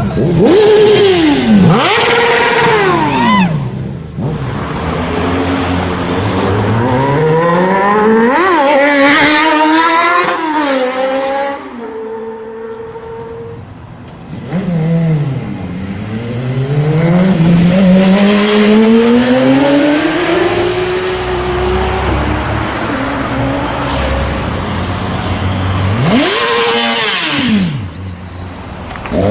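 Sport motorcycles accelerating hard along a street, one after another. The engine pitch climbs through the gears and drops as each bike goes past. A brief steady rev comes around the middle.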